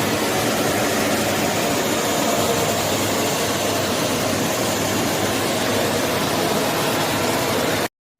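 Philips FC9352 bagless cyclonic vacuum cleaner running, a loud steady rush of motor and airflow that cuts off abruptly near the end.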